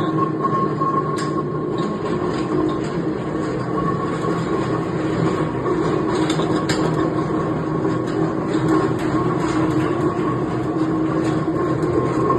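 40-litre tilting wet grinder running: a steady mechanical rumble with a constant hum and a few faint clicks.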